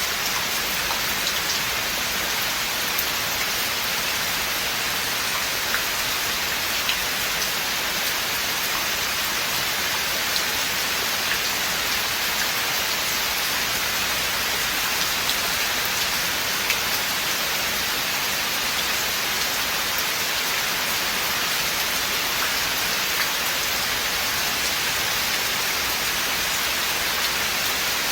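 Steady rain falling in a forest, an even hiss with scattered ticks of individual drops.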